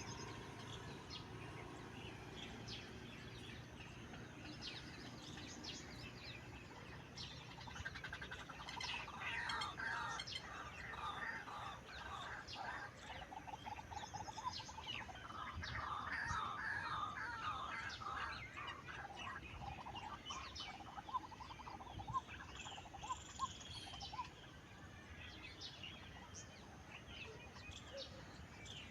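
Several birds chirping and calling, with fast trilling calls in the middle.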